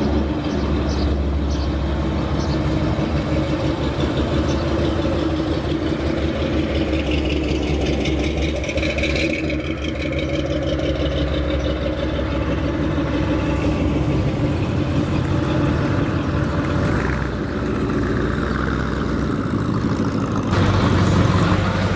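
A car engine running steadily at idle, a continuous low rumble that gets a little louder near the end.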